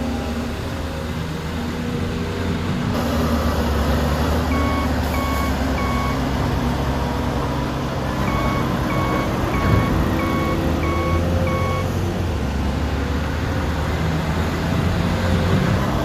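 Dubbed recording of a heavy diesel construction machine engine running steadily, stepping up a little about three seconds in. A reversing alarm beeps three times starting about four seconds in, then six more times from about eight seconds, with the beeps a little under a second apart.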